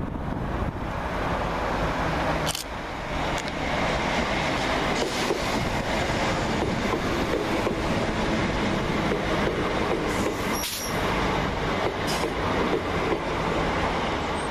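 A Class 319 electric multiple unit running past on the rails: a steady rumble of wheels and bogies on the track, with a few sharp clacks over the rail joints.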